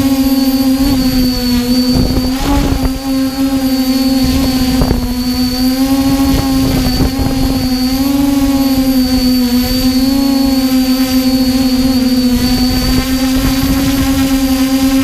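XJ470 multirotor drone's motors and propellers running in flight, a steady high hum whose pitch wavers slightly up and down as the motors adjust. A rough low rumble of wind on the microphone lies under it.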